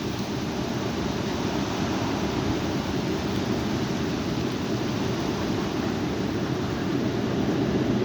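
Strong wind blowing steadily, a dense rushing noise heaviest in the low end.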